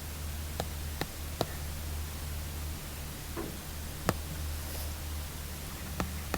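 Apple Pencil tip tapping on an iPad screen: about six sharp, separate taps and one short scratchy stroke a little past the middle, over a steady low hum and hiss.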